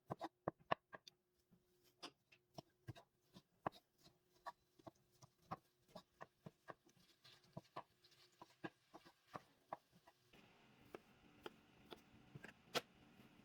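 Faint, irregular light clicks and taps of kitchen food preparation, two or three a second. A low steady hum comes in near the end.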